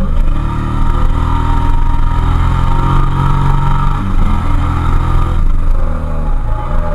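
Suzuki SV650S K3's 645 cc 90-degree V-twin engine running under way, its note climbing gently for the first few seconds. It drops back at about four seconds, then dips and picks up again near the end as the throttle changes.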